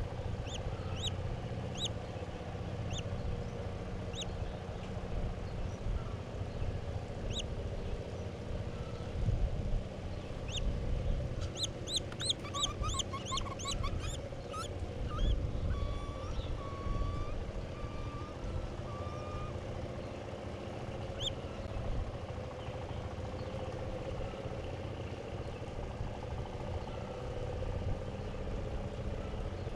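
Small birds chirping in short, high notes now and then, with a rapid run of chirps and some lower whistled notes about twelve seconds in, over a steady low rumble of distant traffic.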